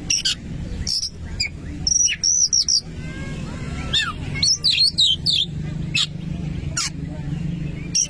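Oriental magpie-robin (kacer) singing: quick bursts of loud whistled notes, rising and falling glides and sharp clicks, in separate phrases over a steady low hum.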